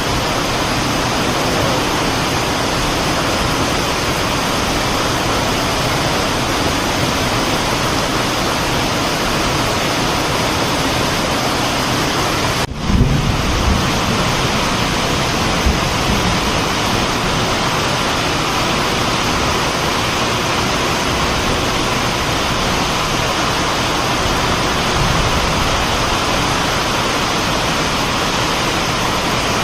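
Loud, steady rushing noise of a moving train, with a momentary break about 13 seconds in followed by a few low thumps.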